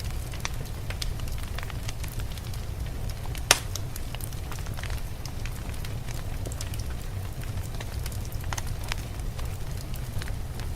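Wood fire crackling in a fireplace, with scattered small pops and one sharp louder pop about three and a half seconds in, over a steady low rumble.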